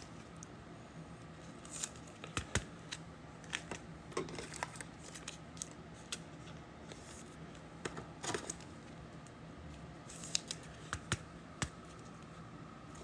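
Trading cards and pack wrappers being handled: scattered light clicks and a few brief rustles.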